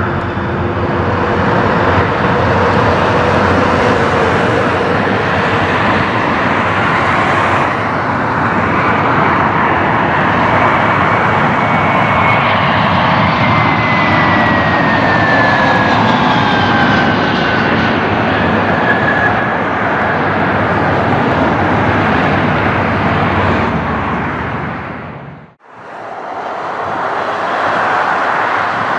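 Airbus A321's IAE V2500 turbofan engines running loud and steady as the jet passes, with a whine that slowly falls in pitch. About 25 seconds in the sound cuts out abruptly, then another jet airliner's engine noise starts up again.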